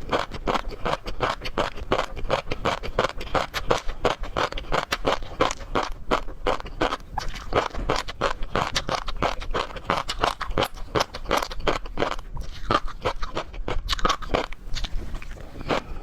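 Close-miked mukbang eating sounds of seafood: a rapid, irregular run of crunching, crackling and scraping, as of chewing and handling shellfish and shells.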